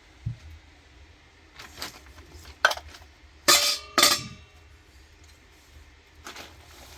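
Dishes and utensils knocking and clinking as they are handled: a dull knock, then several sharp clinks, the two loudest in the middle leaving a short metallic ring.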